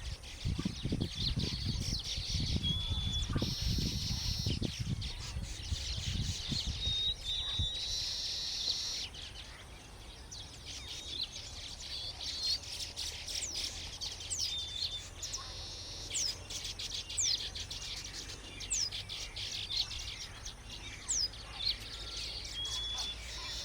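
Colony of baya weavers calling: many overlapping high chirps, short whistled notes and buzzy wheezes. A low rumble with thumps sits under the calls for about the first nine seconds.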